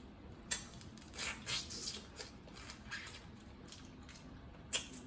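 Close-up eating sounds: chewing and mouth smacks, with a few sharp clicks, one about half a second in, a cluster a second later and another near the end.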